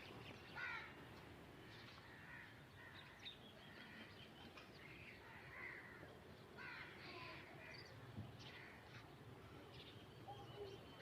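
Birds calling faintly, short calls repeating every second or two over a steady low background noise.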